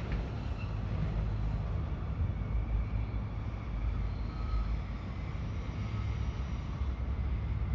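A train running through a station: a steady low rumble with faint whining tones above it.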